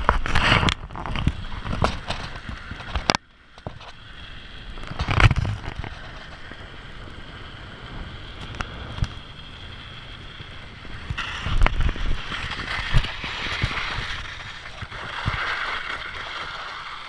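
Wind and riding noise from a bike ride, picked up by a GoPro action camera, with scattered knocks and bumps; a loud bump comes about five seconds in.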